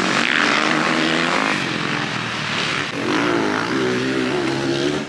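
Dirt bike engine running at speed, its pitch rising and falling with the throttle.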